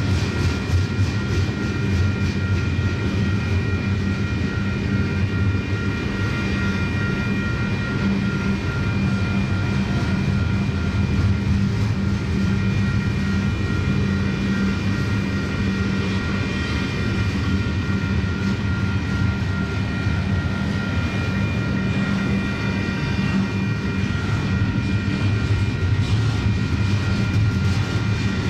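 Long double-stack intermodal freight train rolling past: a steady rumble of wheels on rail, with a thin, steady high whine above it.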